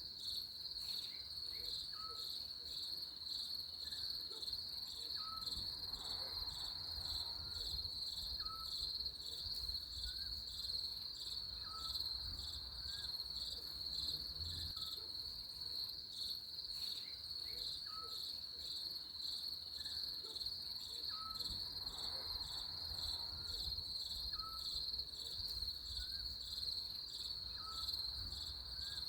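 A steady chorus of crickets with a fast, even pulse, plus a faint short chirp repeating about every second and a half.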